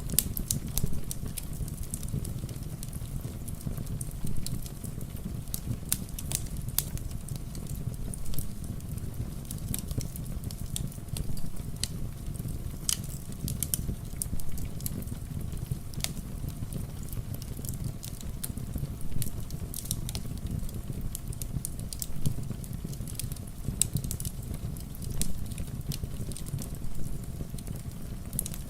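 Fireplace ambience: a wood fire crackling with frequent sharp pops over a steady low rumble, with rain falling.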